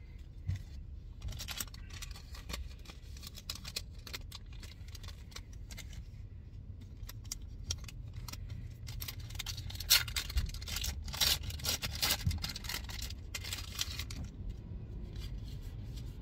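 Pokémon trading cards being handled and slid one behind another, a run of short rustles and scrapes that is busiest from about ten to thirteen seconds in.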